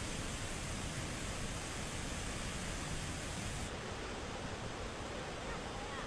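Steady rush of heavily flowing water, an even noise with no breaks; the highest hiss drops away a little less than four seconds in.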